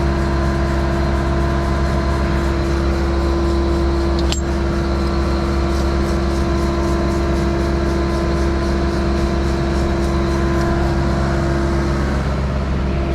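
Skid-steer-powered concrete pump running steadily, a constant engine hum with several steady tones, and one sharp click about four seconds in.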